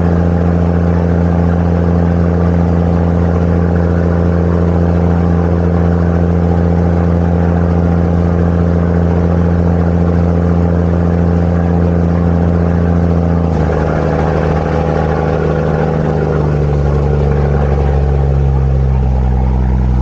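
Tour boat's engine running steadily and loud, heard on board. About two-thirds of the way through, its note drops and then steps lower again as the engine throttles back.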